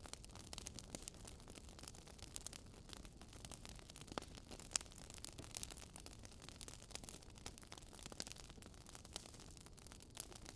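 Campfire crackling softly: irregular small pops and snaps over a faint hiss.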